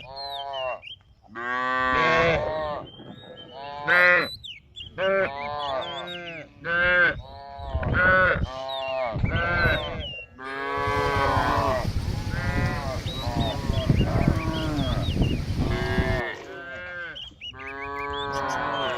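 Cattle mooing over and over, many short calls in quick succession, with small birds chirping faintly above them. A steady rushing hiss joins for about five seconds in the middle.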